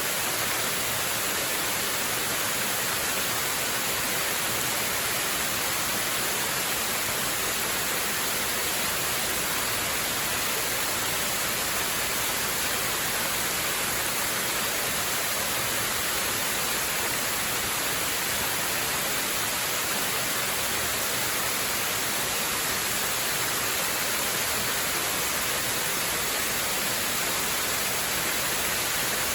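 Waterfall: a steady, even rush of falling water, bright and hissy, with no change in level.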